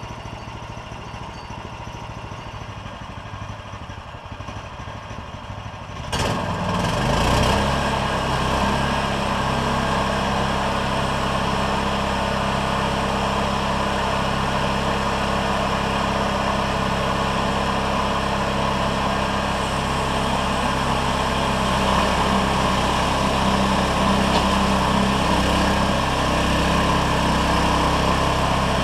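Gasoline engine of a bandsaw mill running, then throttled up about six seconds in and running steadily at high speed.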